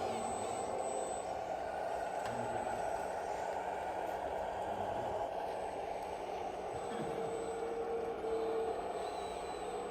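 Radio-controlled scale model truck or tractor running steadily, its electronic sound module playing a diesel engine sound, with two short beeps about three-quarters of the way through.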